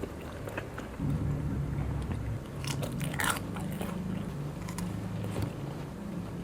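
Close-miked chewing and crunching of food, with a cluster of crisp bites about three seconds in. A low humming tone that changes pitch in steps joins about a second in.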